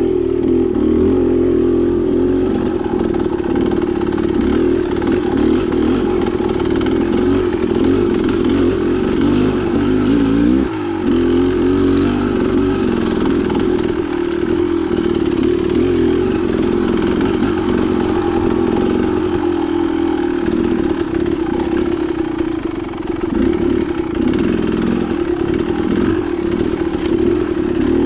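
Dirt bike engine running steadily under throttle on a rough single-track trail, with some clatter; the engine note drops briefly about eleven seconds in.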